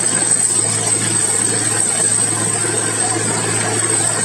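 Helicopter engine running steadily: a constant high turbine whine over a low, even hum, with no change in level.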